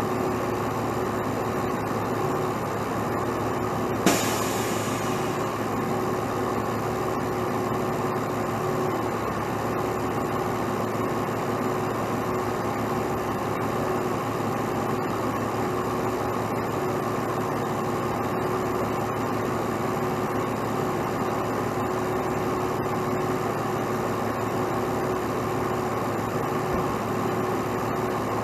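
Heavy truck engine running steadily at idle, with one sharp metallic clank about four seconds in, followed by a brief hiss.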